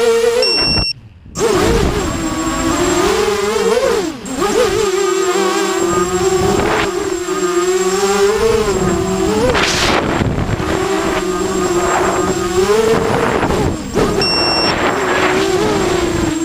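A QAV250 race quadcopter's motors and propellers whining in flight, the pitch rising and falling with throttle changes. A brief high beep sounds about half a second in and again near the end, and the sound cuts out briefly about a second in.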